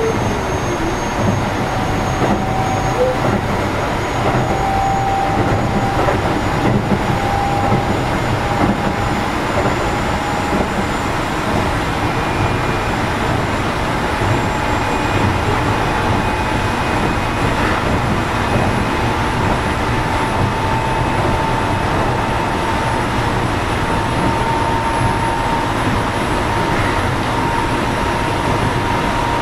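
Running noise of a Keio 7000 series electric train, heard from inside car 7029 while under way: a steady rumble of wheels on rail. A faint whine rises slowly in pitch throughout as the train gathers speed.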